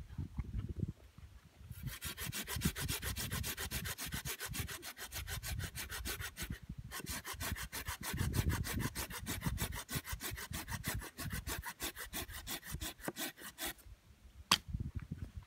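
Hand saw cutting through wood in quick, even rasping strokes, with a short break about halfway, stopping a couple of seconds before the end; a single sharp click follows.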